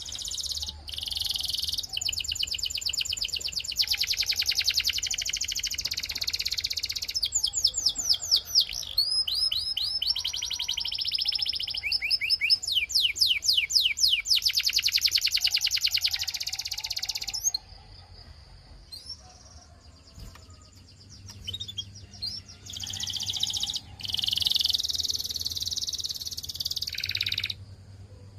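Canary singing: a long run of rapid trills and quick repeated sweeping notes lasting some seventeen seconds, then a short pause, and a second trilled phrase a few seconds later.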